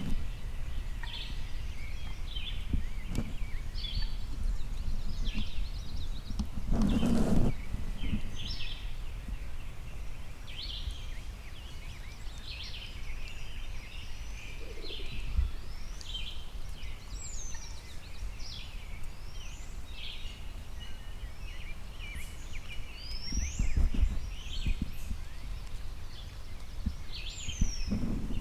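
Songbirds chirping and singing, many short calls and whistles overlapping, over a steady low rumble of outdoor background noise. A brief loud rustle about seven seconds in.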